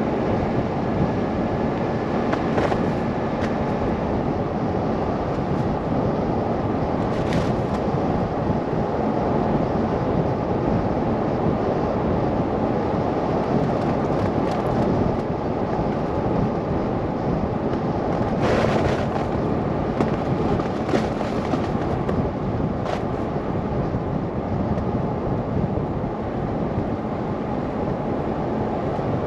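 A car driving through a snow blizzard: steady wind and road noise, with scattered short taps and one louder thump about eighteen seconds in.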